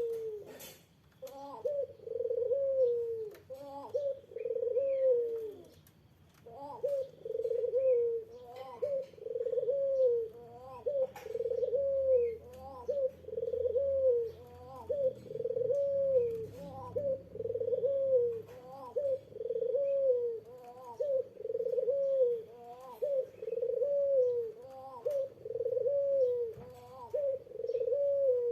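Puter dove (domestic collared dove) cooing in a steady run of short falling coos, about one a second.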